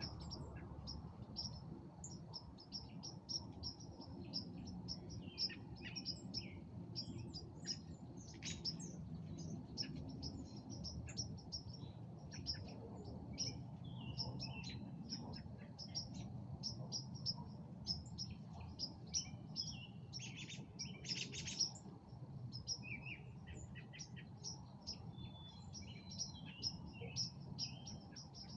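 Many songbirds chirping and singing over one another, with rapid high chirps throughout and a few louder calls now and then, over a low steady rumble.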